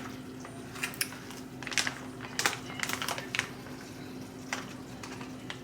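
Light, irregular clicks and taps of a utensil against dishes as food is served onto a plate, over a steady low hum.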